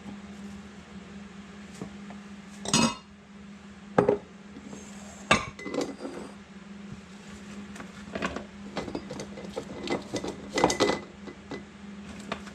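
Glass jars clinking and knocking as sliced cucumbers and onions are packed into them, with scattered handling noises; louder knocks come about three, four and five seconds in, and a busier cluster comes near the end. A steady low hum runs underneath.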